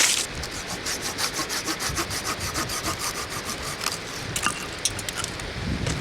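Hand saw cutting through wood in quick, even strokes, then a few sharper knocks near the end.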